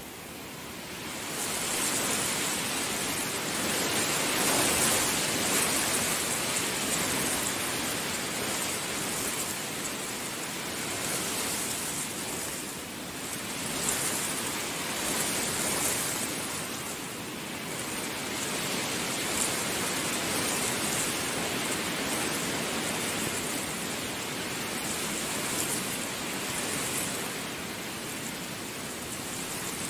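Heavy rain falling, a dense steady hiss that swells about a second in and then rises and falls gently in waves.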